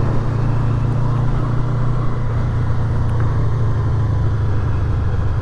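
Honda VFR800's V4 engine running at a steady cruise, a constant low drone with wind and road noise over it, recorded through furry windshields on the microphones.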